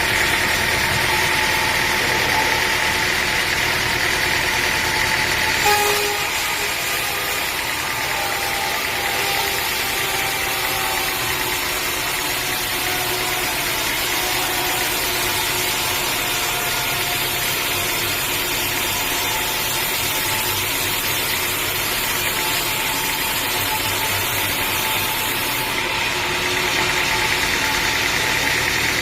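Sawmill engine running steadily, with a brief knock about six seconds in after which the sound drops a little, then picks up again near the end.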